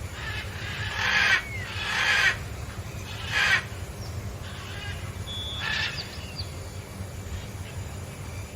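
Four short, harsh animal calls, the loudest about a second and two seconds in, with a few faint thin chirps between them over a steady low hum.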